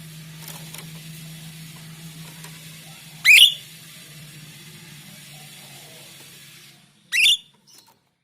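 Jalak rio-rio starling giving two short, loud, sharp whistled calls that sweep steeply upward, about four seconds apart, over a steady low hum and hiss that cut out just before the second call.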